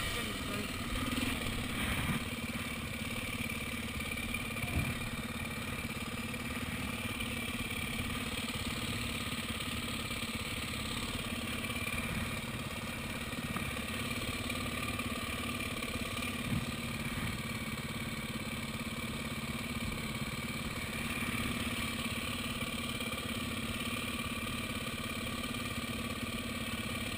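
Dirt bike engine idling steadily while the bike stands still.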